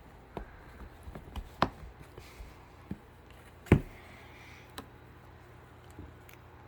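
Scattered light taps and knocks from a cockatoo moving about inside a cardboard box, with a sharper knock a little under four seconds in.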